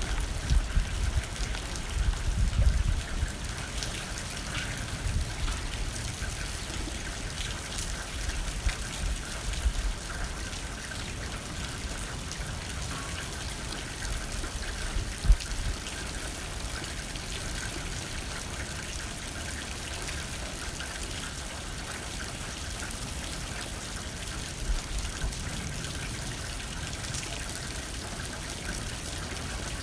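Steady rain pattering on a window, with low gusts of wind that are strongest in the first few seconds and then ease. One sharper tap comes about fifteen seconds in.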